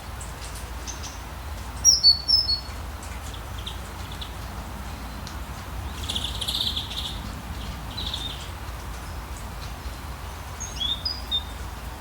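Forest rain ambience: a steady hiss of rain with a low rumble under it, and birds calling over it. There is a quick run of sharp chirps about two seconds in, a buzzy call around the middle, and a few more chirps near the end.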